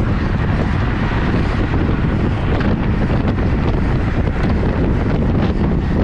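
Steady wind buffeting the camera's microphone while riding a road bike at speed: a dense rumbling rush with no pauses.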